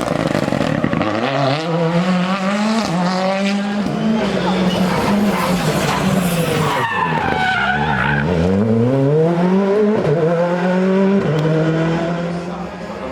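Rally car engine accelerating hard through several upshifts, the pitch climbing and dropping back at each change. About seven seconds in the revs fall away as the car slows, then climb again through more gear changes.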